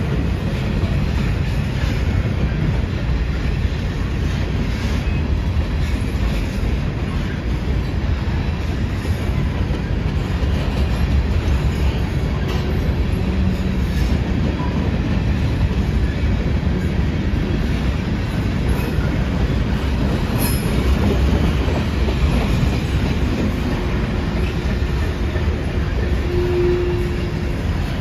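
Freight train of covered hopper and tank cars rolling slowly past: a steady low rumble of steel wheels on the rail. A faint wheel squeal comes about halfway through, and a longer one near the end.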